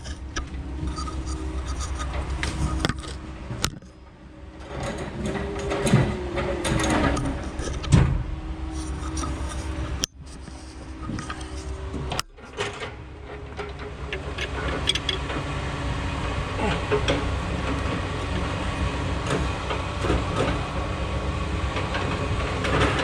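Heavy logging machine's diesel engine running steadily, with metal clanks and knocks from repair work on the machine; two louder knocks come about six and eight seconds in.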